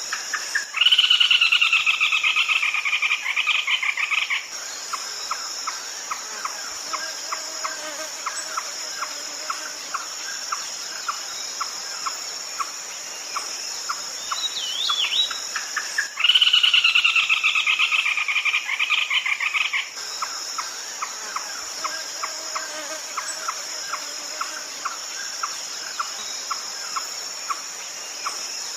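Red-legged crake calling: a loud run of rapid notes lasting about three and a half seconds, then a steady series of short notes at about three a second, the whole sequence repeating about fifteen seconds later. A steady high insect drone runs underneath.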